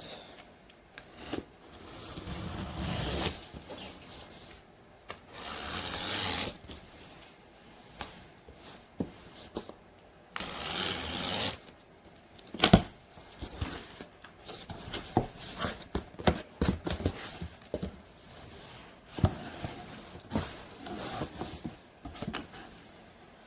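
Cardboard box being opened and unpacked by hand: irregular scraping, rubbing and tearing of cardboard and packaging, with a sharp knock about halfway through.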